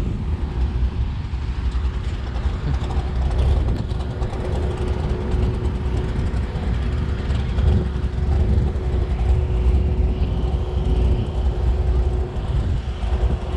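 Wind buffeting the microphone in a steady, uneven rumble, with a thin steady hum underneath.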